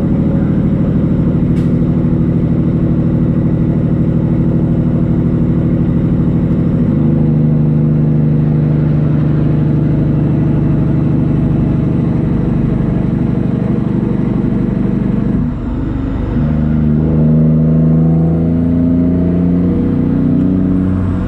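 Semi truck's diesel engine pulling steadily. About fifteen seconds in the sound dips briefly for a gear change, then the engine note climbs again as it pulls in the next gear.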